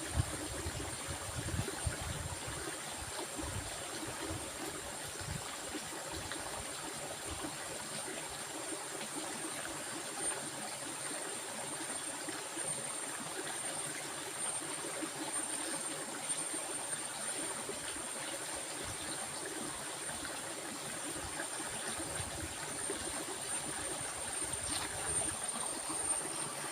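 A stream of water running steadily, with a constant thin high-pitched tone above it and some low rumbling in the first few seconds.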